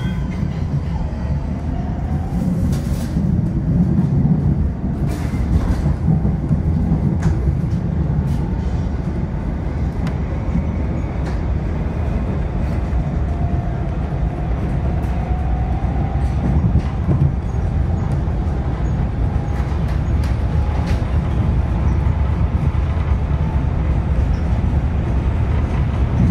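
MARTA heavy-rail car heard from inside while it moves along the track: a steady low rumble of wheels on rail, with scattered clicks and a faint traction-motor whine that climbs in pitch as the train pulls away from a station and picks up speed.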